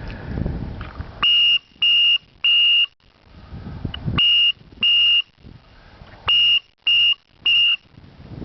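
A handheld pigeon-training whistle blown in eight short, steady, high-pitched blasts, grouped three, two and three. It is the signal used to turn racing pigeons in flight and call them round.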